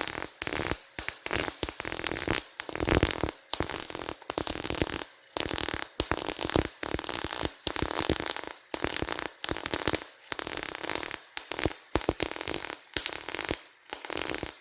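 Welding arc crackling and sizzling in irregular spurts with short breaks, as frame bracing is welded in.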